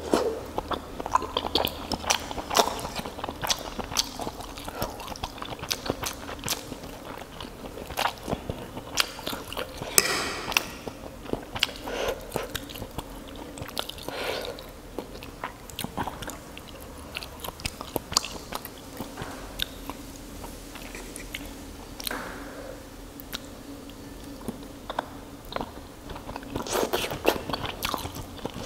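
Close-miked chewing and biting of fried crab sticks: a steady run of wet mouth clicks and soft crunches, with louder bites about ten seconds in and near the end.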